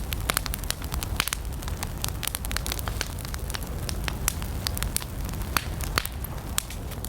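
Campfire of burning wood crackling, with frequent sharp irregular pops over a steady low rumble of the flames.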